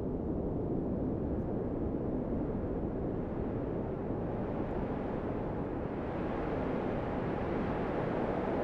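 Blizzard wind blowing steadily, a low, even noise that grows a little stronger and brighter near the end.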